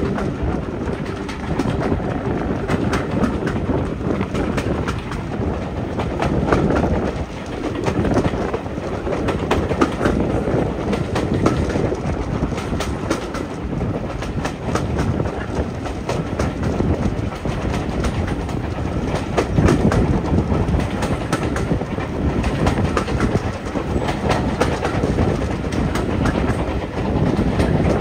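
A train running by on the rails, its wheels clattering over the rail joints in a continuous stream of clicks over a steady rumble.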